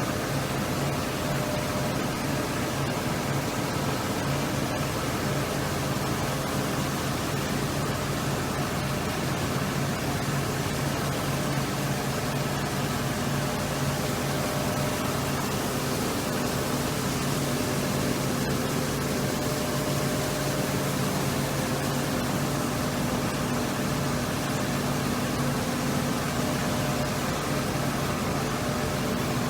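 Steady machinery hum with a constant hiss, holding a few low, even tones without change.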